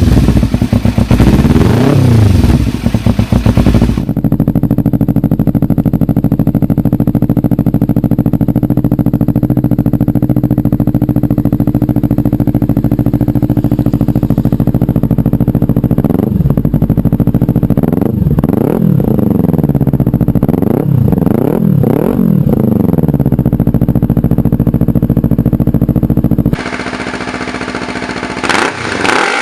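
Kawasaki Ninja 300 parallel-twin with an aftermarket exhaust, revved a few times, then held at a steady speed. About halfway through it is blipped up and down in several quick revs, then settles back to steady running. Near the end the sound cuts to a quieter stretch with a few more revs.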